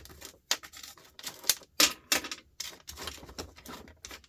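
Small metal parts, nuts and bolts, clinking and clattering as they are handled and dropped. The sharp clicks come in an irregular run of about three or four a second.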